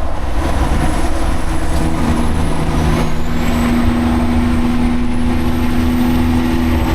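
Semi-truck running steadily: a constant low engine and road rumble with a steady hum over it that grows stronger a couple of seconds in.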